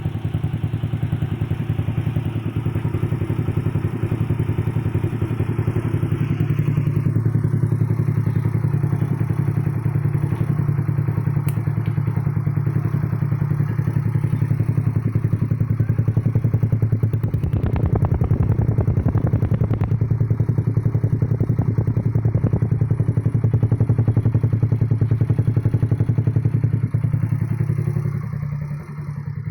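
Custom 200cc Yamaha Nouvo scooter engine running steadily through a PDK aftermarket exhaust, a low pulsing note that dips briefly near the end.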